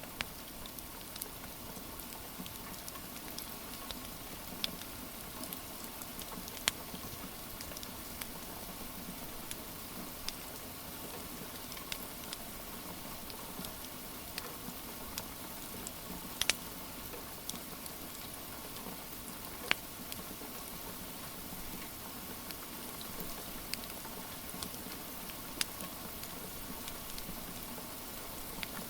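Steady rain with a wood fire crackling: an even hiss of rain under scattered sharp pops at irregular intervals.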